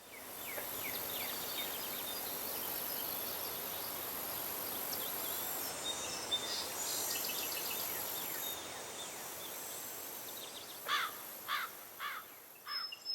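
Outdoor nature ambience: a steady high insect drone with scattered small bird chirps. In the last couple of seconds a bird gives a run of louder, quick downward-sliding notes.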